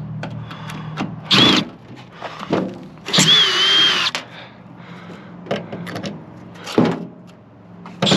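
Power drill driving screws while a microwave oven is taken apart: a short burst of motor whine about a second and a half in, then a longer one of about a second, with clicks and knocks of metal parts between.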